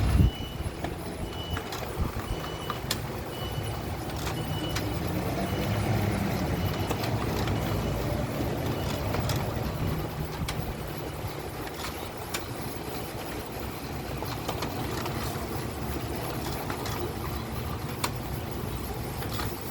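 HP LaserJet Pro M401dn laser printer running a print job, with a steady low drone and scattered clicks: an abnormal noise that the owner puts down to a crooked bearing.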